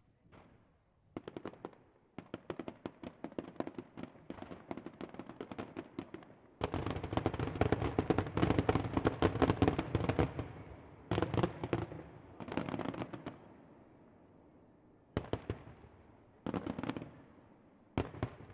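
Fireworks display: rapid volleys of bangs and crackle, building to a dense, loud barrage about a third of the way in that lasts several seconds, then several shorter, separate bursts.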